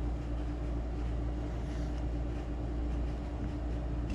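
A steady low hum with a constant faint tone, unchanging throughout, with no knocks or clicks.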